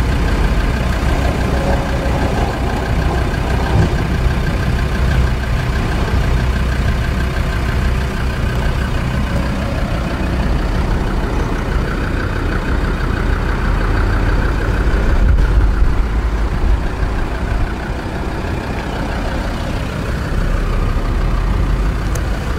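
Land Rover Discovery 2 engine idling steadily, a continuous low hum.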